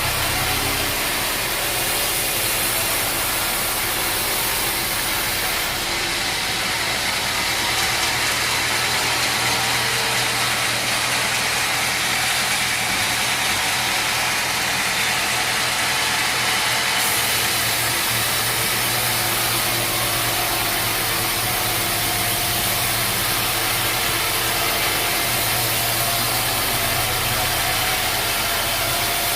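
Sawmill machinery running steadily: a motor's constant hum under an even, noisy hiss, with no change in level.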